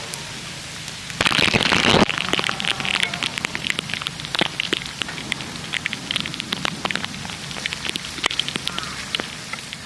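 Rain falling, drops striking a hard surface in many irregular sharp taps over a steady hiss. About a second in there is a loud rush of noise lasting under a second.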